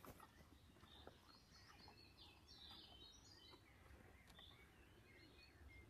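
Near silence: faint outdoor background with a few faint bird chirps, mostly in the first half.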